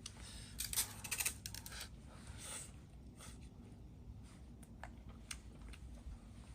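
Light clicking and rustling of close-up handling: a quick run of small clicks in the first two seconds, then scattered single clicks.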